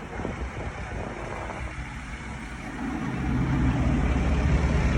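A tractor engine running close by, growing louder about three seconds in as a steady low engine note comes to the fore over rumbling traffic noise.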